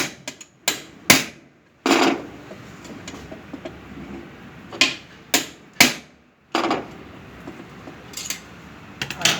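Hammer blows on a sewing machine's main shaft assembly, knocking the loose neck bushing into position: about ten sharp metal knocks at irregular intervals.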